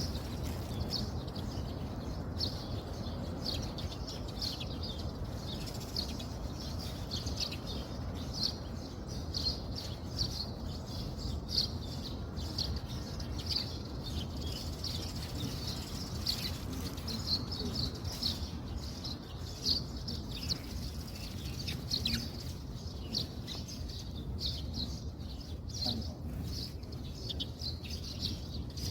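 Small birds chirping continuously, many short high calls overlapping, over a steady low rumble.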